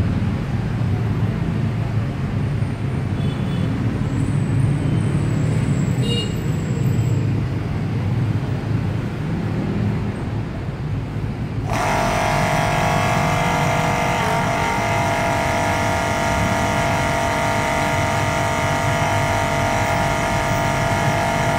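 A low rumble, then about halfway through an electric pump motor in a digital fuel dispenser switches on suddenly and runs with a steady whine.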